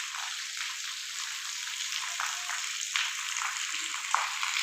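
Rain falling: a steady hiss with scattered drops ticking.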